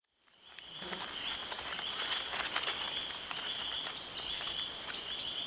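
A dense, steady chorus of insects such as crickets, buzzing and trilling at several high pitches, fading in over the first second.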